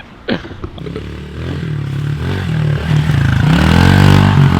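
Pit bike's small single-cylinder engine running and revving up, getting louder to a peak about four seconds in, then easing off a little; a brief sharp noise comes just after the start.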